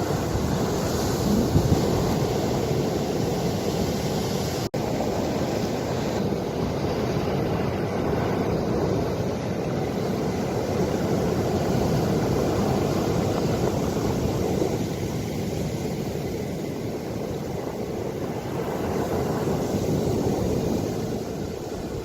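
Ocean waves washing in steadily, with wind rumbling on the microphone. The sound cuts out for a split second about five seconds in.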